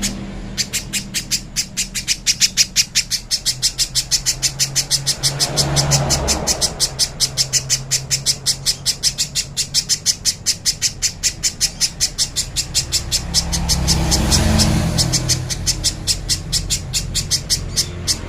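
Spiderhunter (pijantung) calling: a fast, even string of sharp, high chips, about five a second, without a break. A low rumble swells up and fades away twice beneath it.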